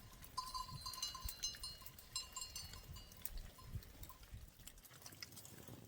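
Livestock bells jingling faintly, a run of repeated metallic clinks that rings for about three seconds and then fades.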